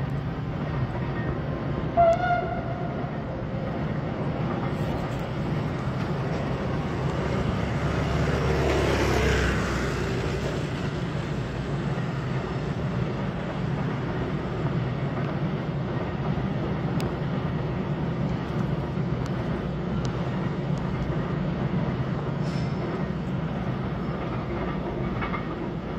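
Electric-hauled freight train running along the line, a steady rumble of wagons that swells for a couple of seconds midway, with a short sharp pitched sound about two seconds in.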